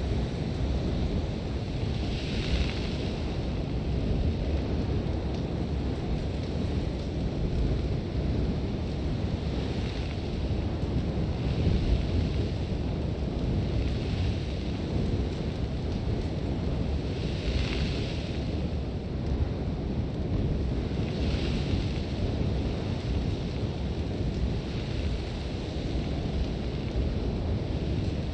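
Sandstorm wind blowing hard against a tent, a constant low rumble with gusts of hissing, blown sand swelling up every few seconds.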